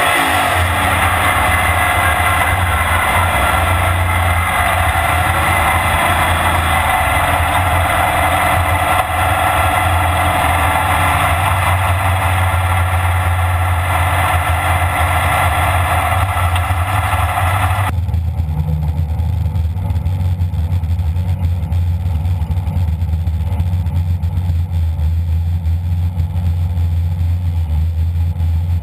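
AMC Pro Stock drag car's engine heard from inside the cockpit. Its revs fall at the start, then it runs steadily as the car rolls. About two-thirds of the way through, the sound changes abruptly to the engine idling, heard from outside the hood.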